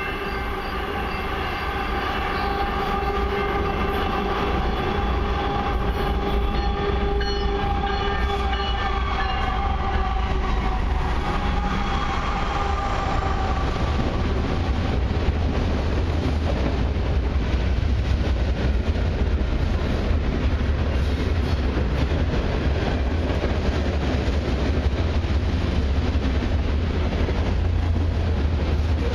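CN freight train's locomotive air horn sounding a long, held chord that fades out about halfway through. The steady rumble of covered hopper cars rolling past close by then takes over and grows louder.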